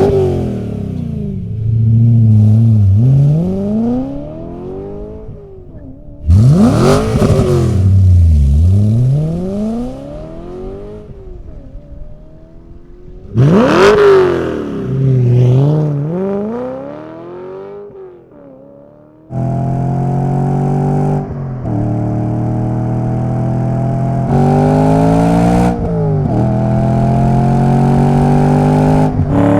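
BMW E9X M3's V8 through a Borla cat-back exhaust under hard acceleration: three loud bursts, each starting suddenly and fading away, with the engine note rising and falling through the gears. About two-thirds in comes a steady pull, the pitch climbing and dropping back at each upshift.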